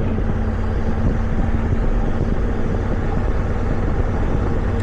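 Motorcycle engine running steadily while riding, with an even drone and no change in speed.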